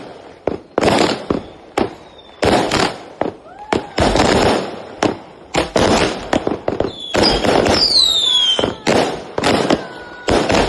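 Multi-shot battery (cake) fireworks going off in rapid volleys of sharp bangs with crackle between them, mixed with whistling shells that glide in pitch; a long falling whistle comes about eight seconds in.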